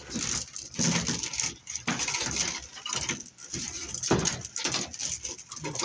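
BX armored cable being handled and worked apart: irregular rattling, scraping and clicking of the metal armor and wire, with no steady rhythm.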